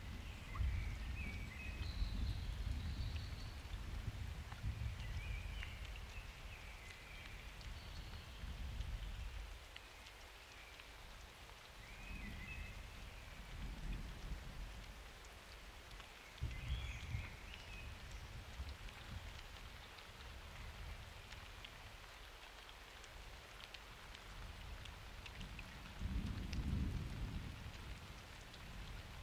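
Steady summer rain with close drops ticking on surfaces, and low thunder rumbling in long swells through the first nine seconds and again near the end.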